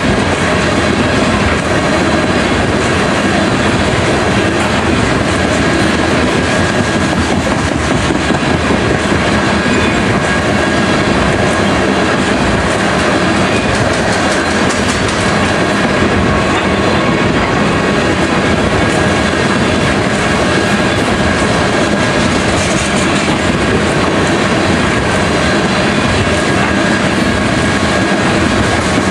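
Freight train of tank cars rolling past steadily, with a continuous loud noise of wheels running on the rails.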